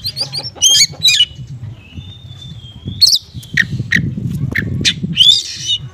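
Small songbirds calling: quick, sharp, high chirps, a thin held whistle, a run of rapid down-sweeping notes and a harsh squawk near the end. The calls are small-bird song material played as a lure to stir an Oriental magpie-robin into singing, over a low murmur of background noise.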